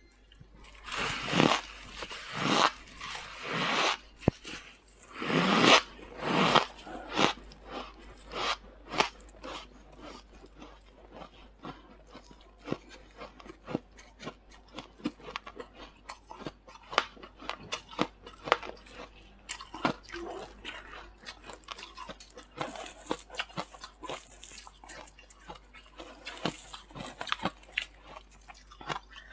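Freezer frost being bitten and chewed: a handful of loud, long squeaky crunching bites in the first several seconds, then a steady patter of quieter, quick crackles as the mouthful is chewed.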